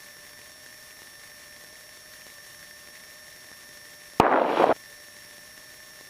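Steady hiss with a faint steady electrical whine in the cockpit's intercom/radio audio. About four seconds in, a sharp click is followed by a half-second burst of loud static that cuts off suddenly, like a microphone key or radio squelch opening and closing.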